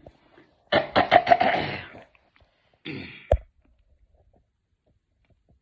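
A man coughing: a loud fit of several quick coughs about a second in, then a shorter cough near three seconds, ending in a sharp knock.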